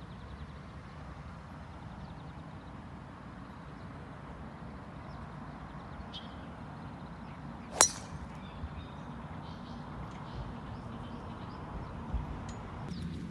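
A golf club striking a ball once: a single sharp crack about eight seconds in, over steady outdoor background noise with a few faint bird chirps.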